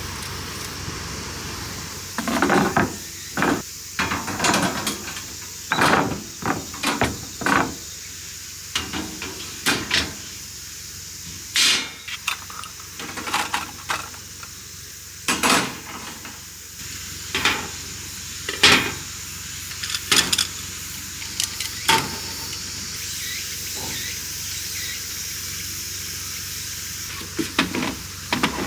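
Steady hiss of rain with many short, irregular knocks and clatters of gear or cookware being handled.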